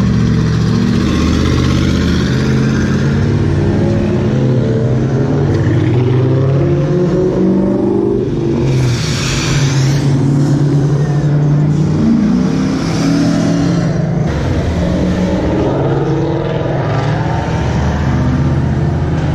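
Ford Mustang engines revving and accelerating one after another as the cars pull out, with loud exhaust note and changing revs, and crowd voices underneath.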